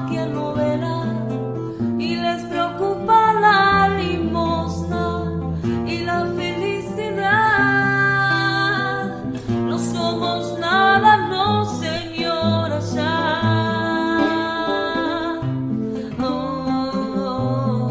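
A woman singing a slow melody with vibrato, accompanied by a strummed acoustic guitar.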